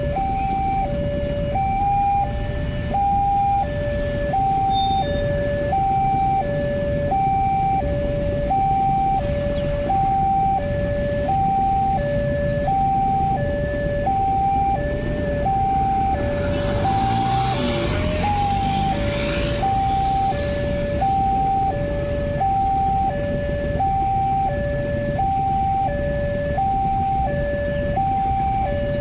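Electronic two-tone warning alarm of a railway level crossing, sounding continuously and alternating between a lower and a higher tone about once a second, over the rumble of road traffic. About two-thirds of the way through, a louder rush of a passing vehicle swells and fades.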